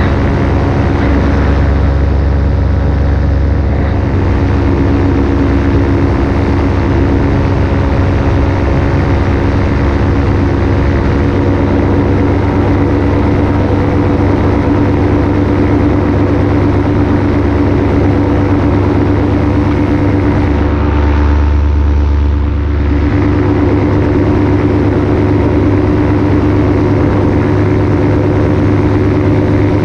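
Paramotor engine and propeller running steadily in level flight. About 21 seconds in, the higher tones briefly thin out and the low rumble swells for a couple of seconds before the steady note returns.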